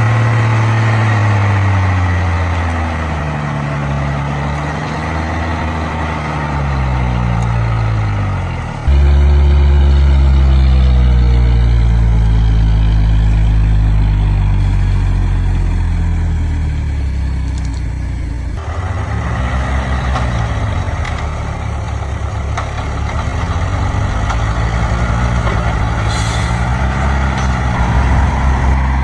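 Logging truck's diesel engine working under load, its pitch rising and falling as it revs. It jumps abruptly louder about nine seconds in and changes character again a little past halfway, like cuts between shots. A short hiss comes near the end.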